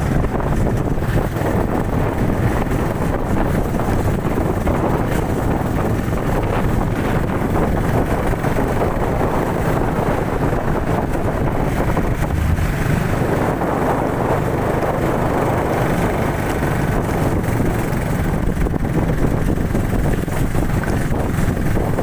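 Wind rushing over the microphone on a moving motorcycle, with the motorcycle's engine running steadily underneath.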